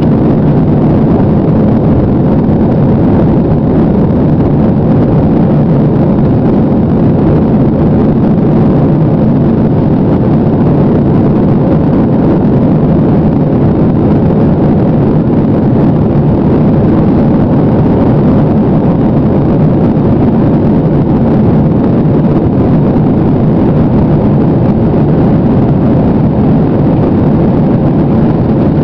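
Airliner's jet engines at takeoff power, a loud steady noise with rushing air.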